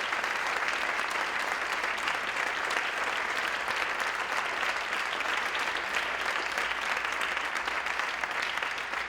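Concert audience applauding: steady, dense clapping.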